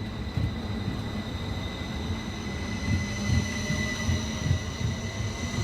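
Class 333 electric multiple unit pulling out of the station: a continuous low rumble with irregular thumps and a steady high whine.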